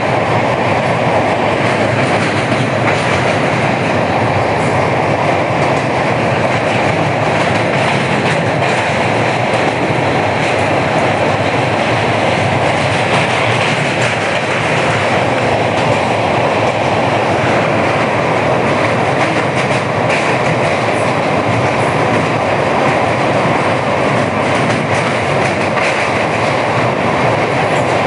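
Passenger train running at speed across a steel truss bridge, heard from aboard: a loud, steady rumble of wheels on rails with scattered faint clicks.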